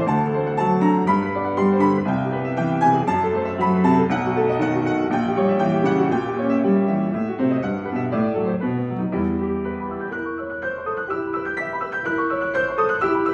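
Solo piano playing a busy passage of many notes at once, with melody over moving bass lines; it eases a little past the middle and builds again near the end.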